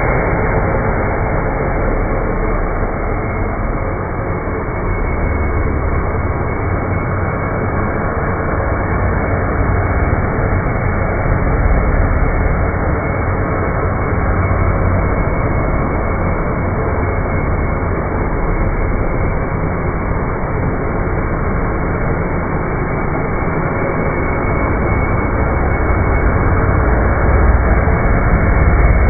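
Dirt Devil Ultra Vision Turbo upright vacuum cleaner running steadily on carpet, its low rumble rising and falling.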